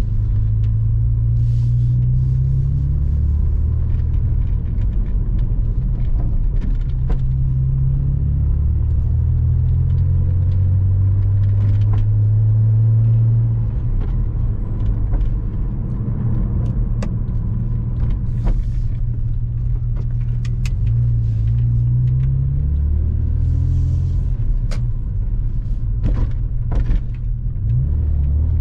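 Porsche Boxster 986's flat-six engine running on the move, a low drone that rises and falls in pitch with the throttle. Near the middle it drops off briefly, and twice later it pulls up in pitch. Faint clicks and ticks sit over it.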